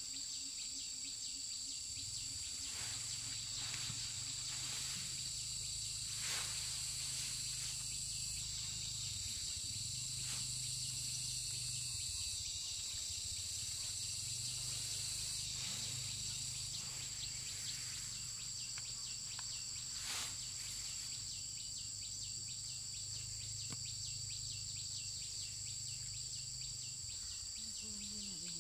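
Steady insect chorus, crickets or cicadas shrilling in two unbroken high tones, with a low steady hum underneath from a couple of seconds in until near the end.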